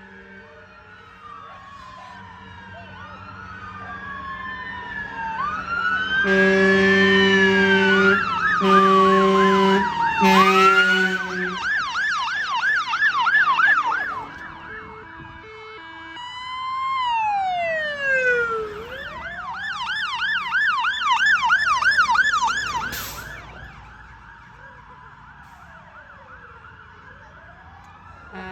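Several fire engine sirens sounding together, mixing slow rising-and-falling wails with fast yelps, as the appliances pass. A horn blasts three times, about a second each, near the start of the loudest part. The sirens swell, then fade away near the end.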